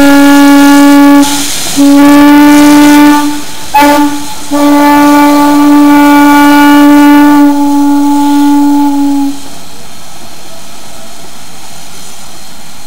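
Steam locomotive whistle, likely the Heisler's, sounding a long, a long, a short and a long blast: the standard grade-crossing signal. After the last long blast a steady, even background noise continues.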